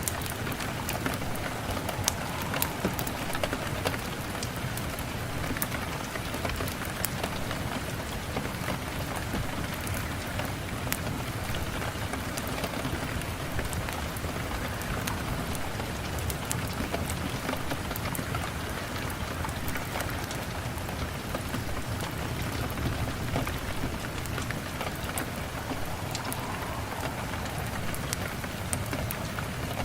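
Steady rain falling, with many scattered sharp ticks through it.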